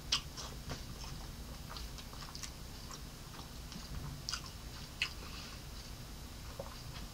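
A person chewing Chick-fil-A waffle fries with the mouth closed: soft, scattered mouth clicks and light crunches.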